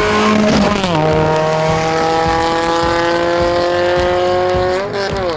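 Rally car engine accelerating hard through the gears. The pitch drops at a gearshift about a second in, climbs steadily for about four seconds, then drops again at another shift near the end.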